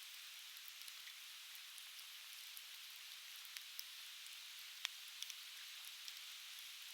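Conifer firewood crackling in an open fire: scattered sharp pops over a steady faint hiss, the loudest pop a little under five seconds in, with two quick ones just after.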